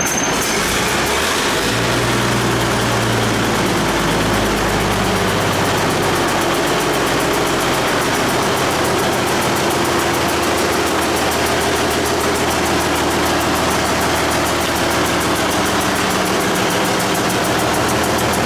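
1964 White's diesel engine running on its first start after years of sitting, shifting in the first few seconds, then settling into a steady idle.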